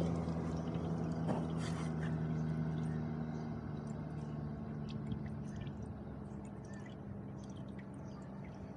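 Motorcycle engine idling as a steady low hum that slowly fades, with faint scattered small ticks.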